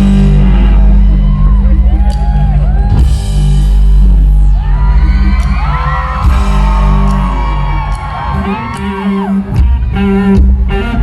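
Live rock band music played loud through a concert PA, with heavy bass and a singing voice, and whoops from the crowd.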